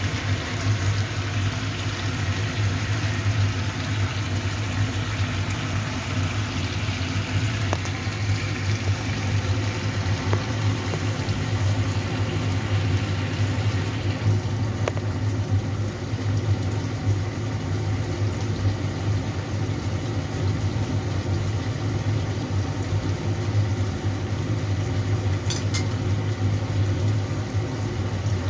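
Food cooking in a pan, a steady hiss that drops away about halfway through, over a constant low mechanical hum.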